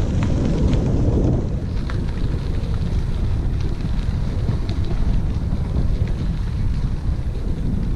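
Wind buffeting the microphone while riding a bicycle: a steady low rumble, with a few faint clicks and rattles scattered through it.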